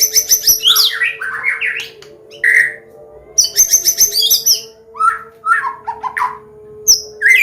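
White-rumped shama (Medan murai batu) singing a varied combination song. Fast runs of high repeated notes alternate with lower rising and falling whistled phrases.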